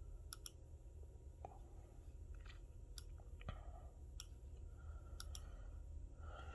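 Faint computer mouse clicks, about a dozen at irregular intervals, some in quick pairs, over a low steady hum.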